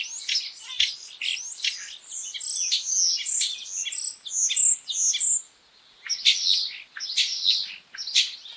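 Common starling singing: a fast, varied run of whistles, clicks and rattling notes, broken by a short pause a little past the middle before it starts again.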